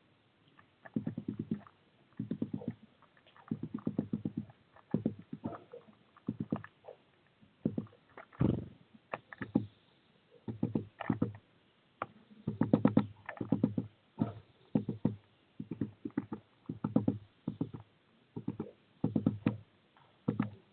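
Rapid clusters of taps and knocks, a burst roughly every second, from a bird moving on the wire right against the feeder camera, its feet and beak tapping and scraping. One louder knock comes about eight seconds in.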